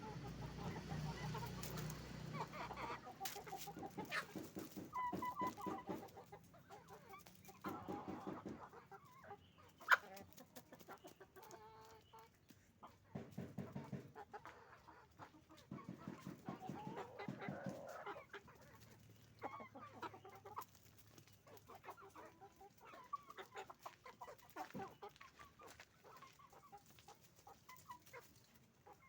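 A flock of chickens, hens and roosters, clucking and calling in short repeated bursts. One sharp click stands out about ten seconds in.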